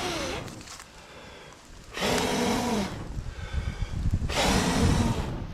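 A person blowing hard on a smouldering campfire to get damp kindling to catch: three long breathy blows about two seconds apart.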